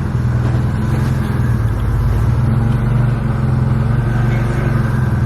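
Forklift engine running steadily at a low, even speed.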